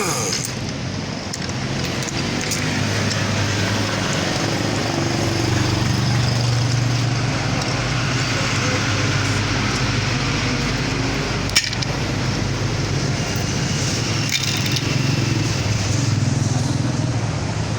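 Steady background noise with a low hum, like passing vehicle traffic, and indistinct voices; a single short click about halfway through.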